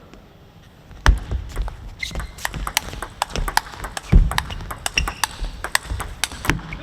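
Table tennis rally: the ball clicks sharply and irregularly off the rackets and table, a few strokes a second. A couple of low thuds sound about a second in and about four seconds in.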